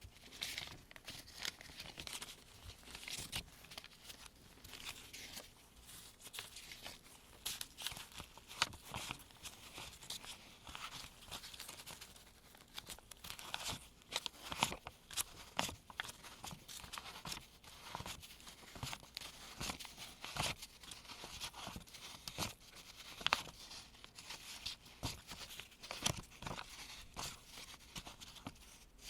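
US one-dollar paper bills being handled and sorted by gloved hands: a steady run of crisp paper rustling with frequent sharp snaps and flicks as bills are picked up and laid down.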